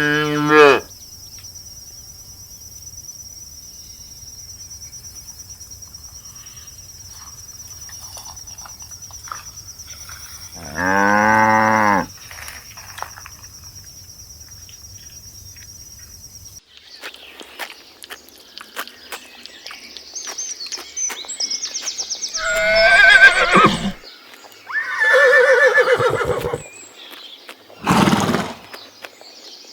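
Two short low moos from a cow over a steady high whine. After a cut, horses whinny and neigh several times, each call loud and wavering.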